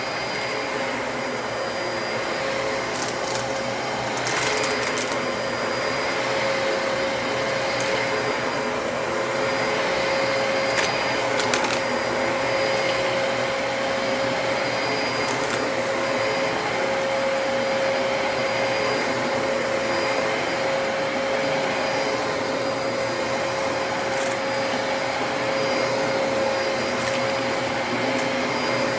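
Dyson DC33 upright vacuum cleaner running steadily, its motor giving a constant whine. A few brief crackles, typical of debris being sucked up, come and go through the run.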